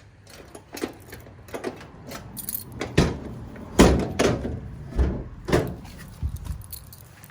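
Heavy thick-aluminum storage box being shut and latched. Lighter clicks and rattles come first, then a run of about five heavy metallic clunks and knocks in the middle.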